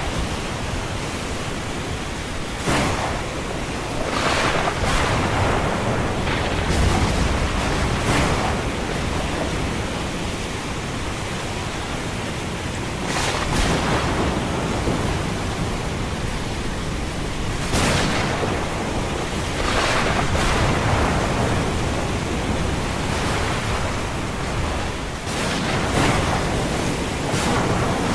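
Ocean surf washing in with a steady hiss, and a wave breaking or surging every few seconds.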